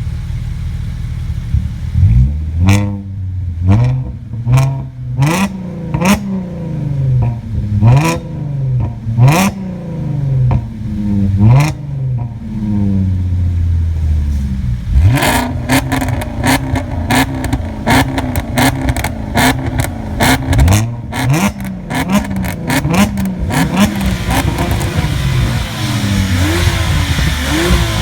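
A tuned car's engine revved in short blips, each rising and falling back, with sharp exhaust pops and crackles after many of them. About halfway through, the revs are held steadier while the exhaust crackles rapidly, and near the end the engine is blipped again.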